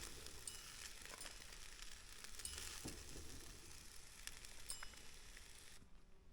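Faint sizzling of shrimp fried rice in a frying pan, with a few light clicks. The sizzle drops away near the end.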